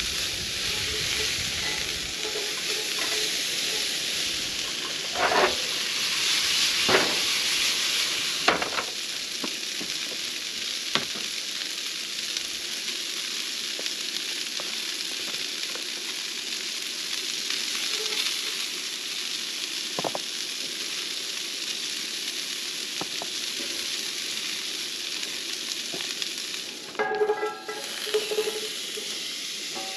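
Vegetables sizzling steadily in a cast-iron skillet, with a few short knocks of a spatula against the pan as they are stirred. Near the end there is a brief clatter as sliced zucchini is tipped from a plate into the hot pan.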